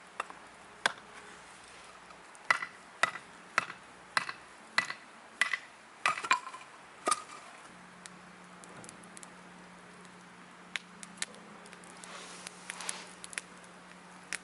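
A run of sharp knocks, about one every half second for several seconds, each with a brief ringing tone, followed by a few scattered lighter clicks.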